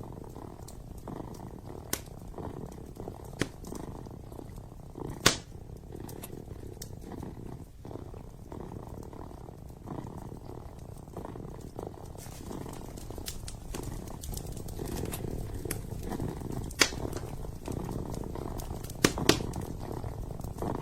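Kitten purring steadily close up, growing somewhat louder after the middle, over a wood fire in a fireplace crackling with a few sharp pops, the loudest about five seconds in and two quick ones near the end.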